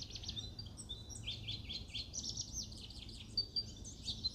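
Lawrence's goldfinch singing: a long, rapid, unbroken jumble of high chirps, slurred notes and short whistles, a song built largely from imitations of other species' calls. A steady low background hum runs beneath it.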